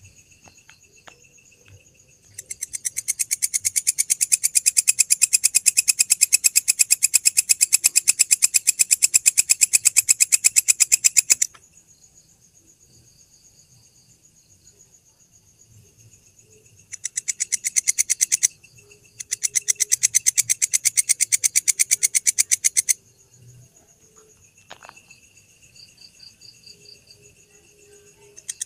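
Grasshopper (belalang) calling at night in trains of rapid buzzing pulses: one long train of about nine seconds, then two shorter ones. Steady high-pitched insect chorus underneath.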